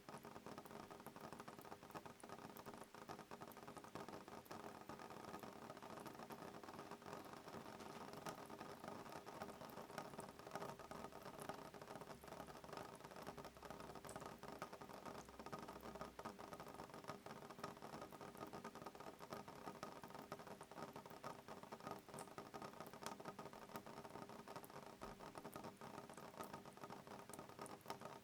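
Soft rain pattering steadily on window glass, a dense run of fine, light drop ticks at an even, low level.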